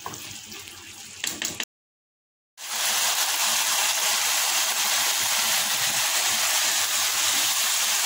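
Split urad lentils (dal mash) with water and oil sizzling in a non-stick frying pan, with a spatula stirring them for the first second and a half. The sound cuts out for about a second, then the sizzle comes back as a loud, steady hiss.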